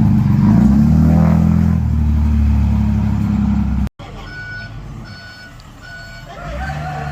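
A heavy diesel engine running loud under load, its pitch shifting as it works, cut off abruptly a little before halfway. A quieter diesel engine follows with a reversing alarm beeping three times.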